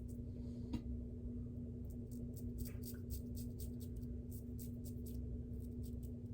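Shavette razor with a half double-edge blade scraping through lathered stubble in short strokes: runs of crisp, high-pitched scratches. Under them is a steady low hum.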